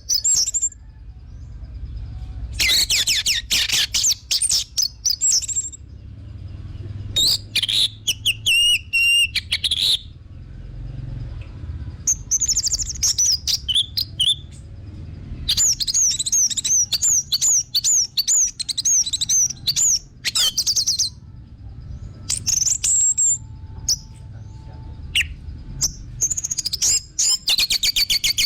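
Orange-headed thrush (anis merah) singing: a lure song of long, varied phrases of quick high whistles, rapid repeated notes and chatters, broken by short pauses. A faint low hum runs underneath.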